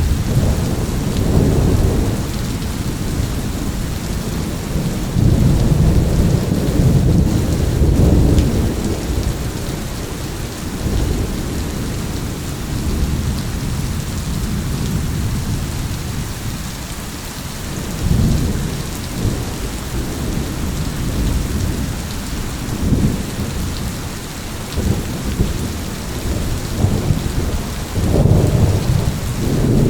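Steady rain falling, with deep thunder rumbling several times: longer rolls early on and near the end, shorter rumbles in between.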